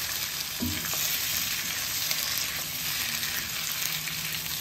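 Pieces of beef testicle and penis with sautéed onion, garlic and ginger sizzling steadily in a nonstick wok, stirred with a silicone spatula, with a soft knock about half a second in. The meat is being seared until it gives up its juices (sangkutsa), before the broth goes in.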